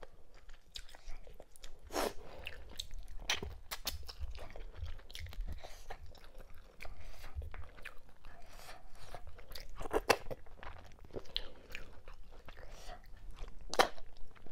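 A person chewing and biting a mouthful of cow skin, mackerel and fufu in okra-ogbono soup, picked up close by a clip-on microphone: irregular crunches and mouth clicks, with louder crunches about two seconds in, around ten seconds in and near the end.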